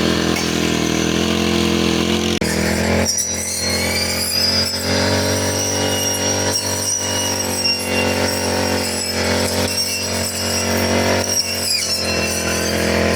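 Four-stroke grass-cutting machine (brush cutter) engine running steadily at working speed, with a brief dip about two and a half seconds in and a high thin whine from about three seconds on.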